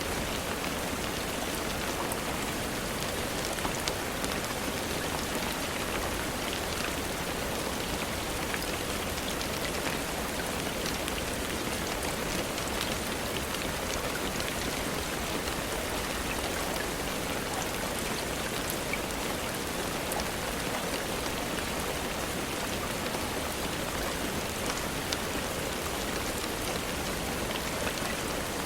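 Steady rainfall, with an even hiss of rain and many small drops ticking on surfaces.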